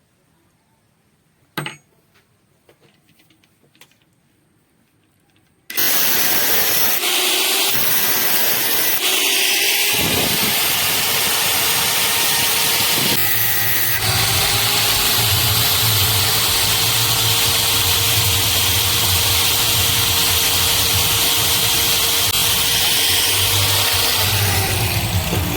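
Electric drill started about six seconds in and running continuously at speed, its motor tone dipping and recovering as it works the wood into a round peg. A single sharp click comes shortly before it starts.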